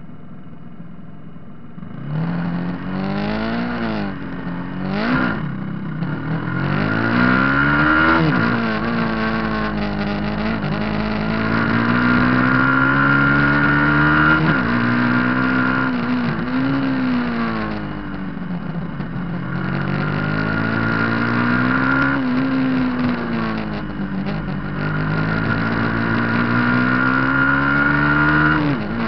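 Superbike racing motorcycle engine under hard acceleration. Its pitch climbs and then drops back repeatedly through gear changes and off-throttle moments. It is quieter for the first two seconds, then comes in loud.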